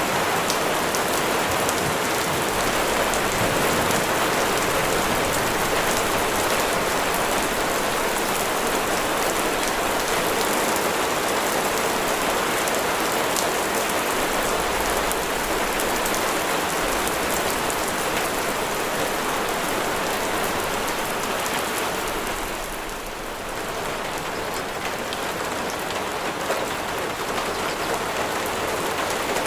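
Heavy rain falling steadily in a dense, even patter, easing briefly about three-quarters of the way through.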